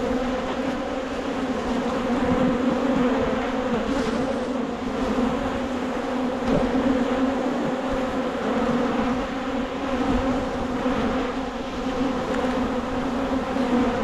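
A crowd of honeybees buzzing in the air around an opened hive, a steady loud hum: the agitated, defensive buzz of a colony disturbed late in the season.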